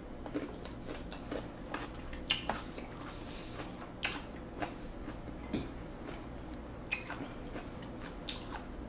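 A person eating: quiet chewing with about ten sharp, crunchy clicks at irregular intervals.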